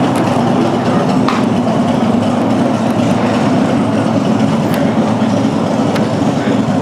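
Car engine and road noise droning steadily while driving, a constant low hum.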